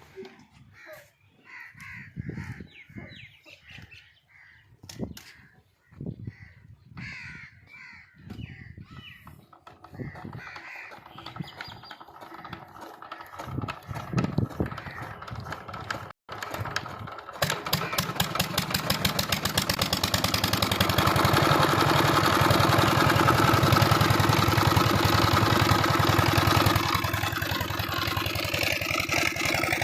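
Crows cawing, then just past halfway an old Peter diesel engine starts up and runs steadily with a fast, even beat.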